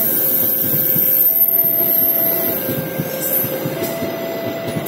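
Coaches of the Jayakarta Premium passenger train rolling past, the wheels running over the rails with a dense, rapid clatter. Over it, a level crossing's electronic warning signal alternates steadily between two tones, changing about every second.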